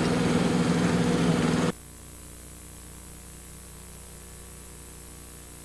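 A steady, engine-like running noise that cuts off suddenly under two seconds in, leaving only a low, faint electrical hum and buzz as the recording ends.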